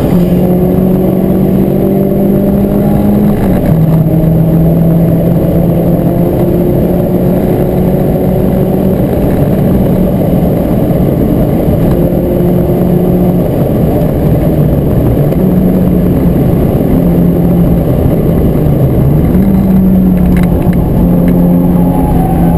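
Renault Clio 172 Cup's 2.0-litre four-cylinder engine running hard, heard from inside the cabin along with road and wind noise. The engine note drops in pitch about three seconds in, and near the end it dips briefly before climbing again.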